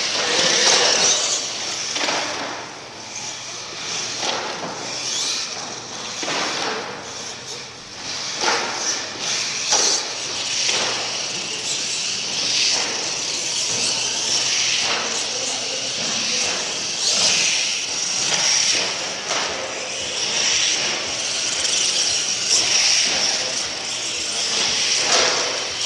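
Monster truck engines running, rising and falling in loudness, under a continuous wash of arena noise.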